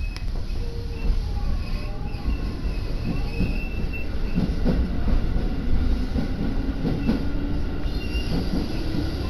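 Electric commuter train running on the Tokaido Line, heard from inside the carriage: a steady low rumble with a low tone that rises slightly in pitch over the second half, faint high squeals on and off, and a few clicks from the wheels.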